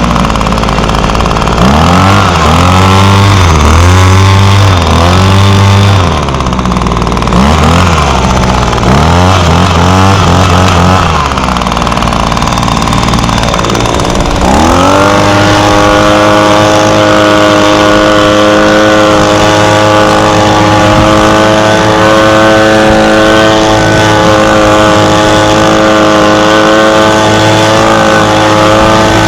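Echo PB250 handheld leaf blower's 25.4cc two-stroke engine being revved up and down in a series of throttle blips for the first ten seconds or so. About fifteen seconds in it is brought up to high speed and held there steadily.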